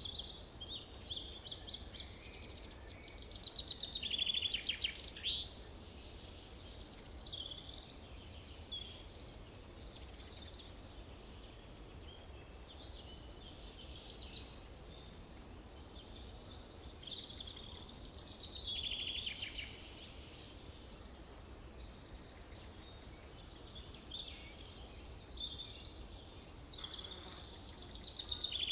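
Several songbirds singing and calling, with short chirps and rapid trills overlapping; louder trilled phrases come about four seconds in, again past the middle and near the end. A faint steady low hum of forest ambience lies underneath.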